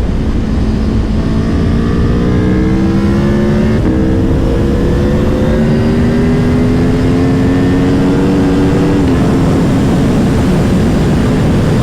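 Aprilia Tuono V4 Factory's V4 engine pulling up through the revs under acceleration, with a quick upshift about four seconds in. It pulls again, then eases off to a steady cruise about nine seconds in. Heavy wind rush on the onboard microphone runs underneath.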